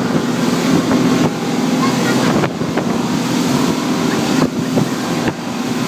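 Speedboat engine running steadily at speed, with wind buffeting the microphone and water rushing past the hull. A few sudden thumps come as the hull slaps over waves.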